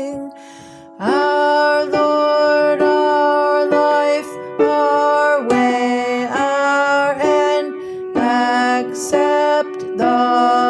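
Hymn music from an alto-part rehearsal track: after a short break about half a second in, a phrase of held notes, roughly one a second.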